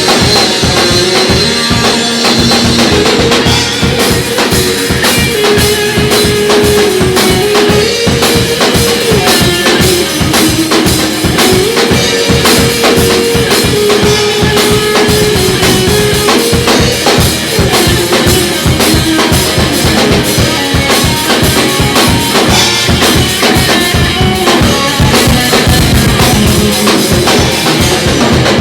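An instrumental rock tune played by a band: a steady drum-kit beat under a lead melody that steps up and down.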